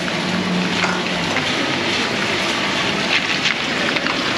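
Heavy tropical rain pouring down, a dense steady hiss with scattered splashes and drips. A low steady hum sounds briefly in the first second or so.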